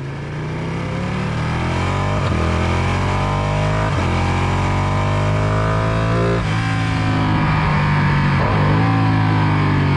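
Motorcycle engine accelerating on a racetrack. The revs climb and drop at four upshifts, about two, four, six and a half and eight and a half seconds in. Background music with a steady low bass plays underneath.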